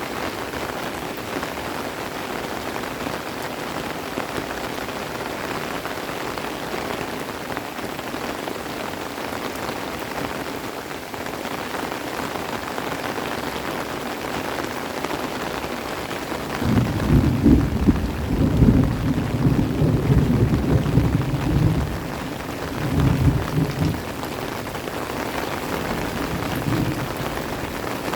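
Steady heavy rain falling. About two-thirds of the way in, a low rumble of thunder rolls for several seconds, then comes back briefly.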